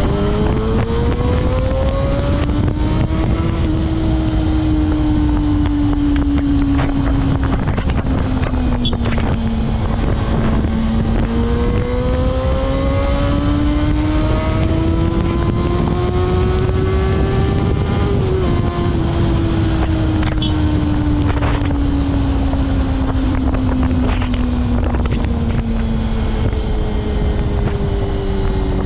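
Honda CBR250RR MC22 inline-four engine running at high revs while riding, its pitch climbing slowly and easing back twice as the throttle changes, with wind rushing on a helmet-mounted microphone.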